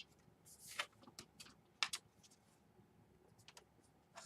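Faint, scattered light clicks and taps as small screws and plastic laptop parts are handled with a screwdriver, about eight irregular ticks with quiet between them.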